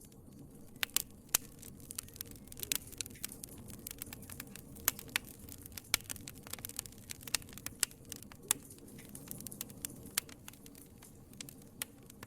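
Wood fire crackling: irregular sharp snaps and pops, several louder cracks among them, over a low steady rumble of burning.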